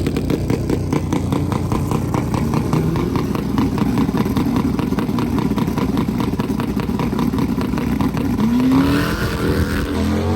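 Drag-racing motorcycle engines running loud and rough, with a rising rev about eight and a half seconds in.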